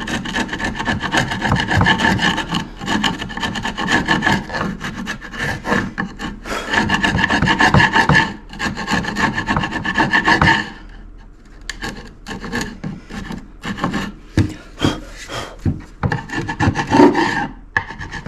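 A steel chisel scraping and paring wood in quick, repeated strokes, cleaning up the surface so the piece sits flat. The strokes are dense for about the first ten seconds, then come sparser and quieter.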